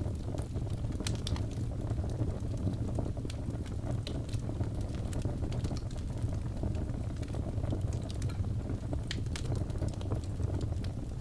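Wood fire burning in a fireplace: irregular small crackles and pops, several a second, over a steady low rumble of the flames.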